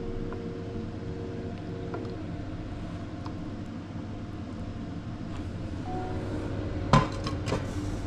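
Kitchen plating sounds: a sharp clink of tableware about seven seconds in, with a lighter knock just after, over a steady low hum.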